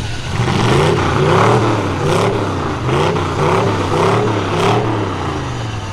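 Full-size truck engines revving hard again and again, the pitch rising and falling in quick waves, with a few sharp knocks between the revs.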